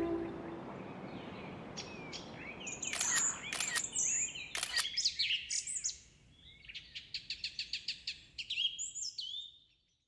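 Small birds chirping and calling, with quick sliding notes, then a fast trill of evenly repeated notes about two-thirds of the way through and a few more chirps before it stops. Background music fades out at the very start.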